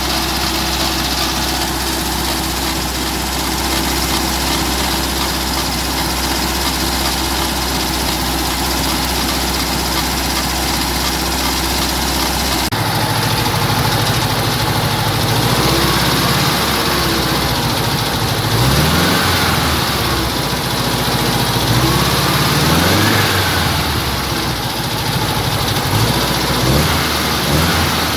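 Volkswagen Beetle's air-cooled flat-four engine idling steadily, then, about halfway through, revved up and let back down several times.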